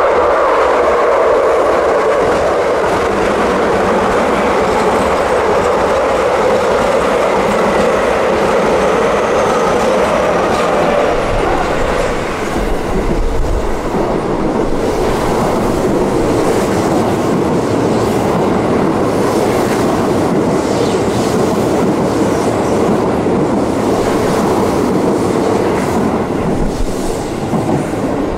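Keio Line electric commuter trains running through a station at speed: a steady, loud rush of wheels on rail with clickety-clack over the rail joints. About twelve seconds in, one train's passing gives way to another's.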